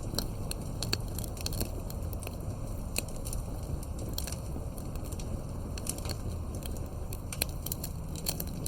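Wood fire crackling and popping: frequent irregular sharp snaps over a steady low rumble.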